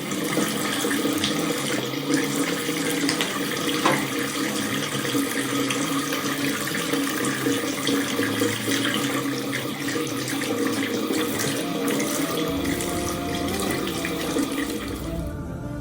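Water running from a tap into a sink, a steady rushing that carries on without a break, with a brief sharper knock about four seconds in.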